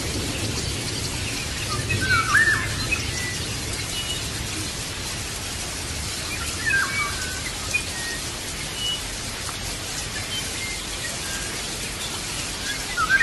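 Birds chirping over a steady background hiss: short scattered calls throughout, with a few louder swooping calls about two seconds in, around seven seconds and at the very end.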